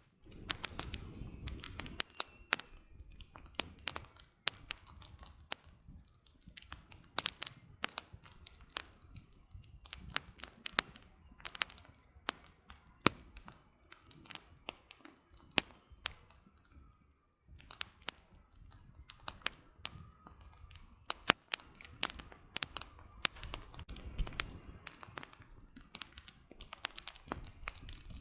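Wood campfire burning, the firewood crackling with irregular sharp snaps and pops, sometimes several a second, over a soft low rush of flame.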